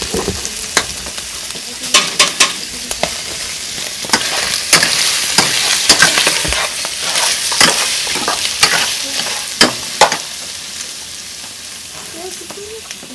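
Pork ribs sizzling in a metal pot as a spoon stirs them. The spoon clinks sharply against the pot a dozen or so times, and the sizzle is loudest in the middle.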